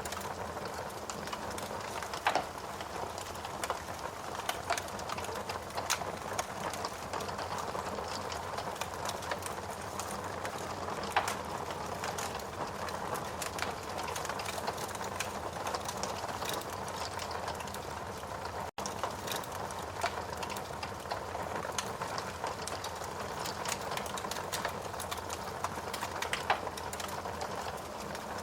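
Wood fire burning in a fireplace: a steady hiss with constant irregular crackling and a few louder pops. The sound cuts out for an instant about two-thirds of the way through.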